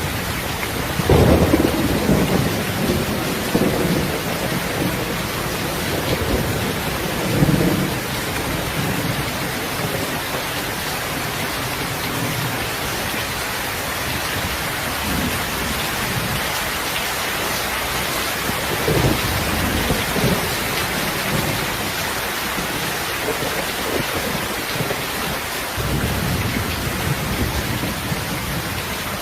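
Steady heavy rain, with low rolls of thunder swelling up about a second in, around seven seconds, and twice more in the later part.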